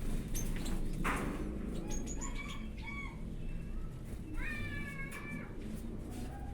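Aviary birds calling: a few short pitched calls about two to three seconds in, then a longer call near the middle, among scattered clicks.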